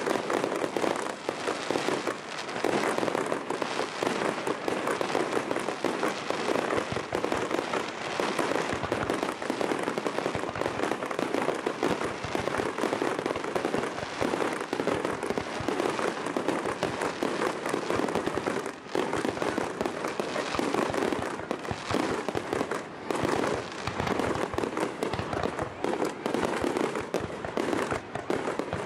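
A starmine fireworks barrage: many shells launching and bursting in a continuous rapid string of bangs and crackling, with barely a pause.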